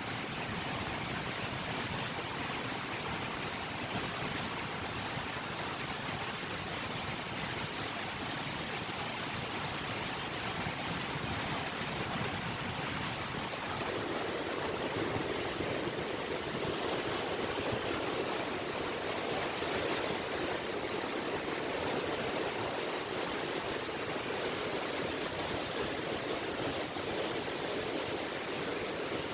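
Small sea waves (ripples) washing steadily on a beach as a continuous wash of water. About halfway through, the wash becomes fuller and slightly louder.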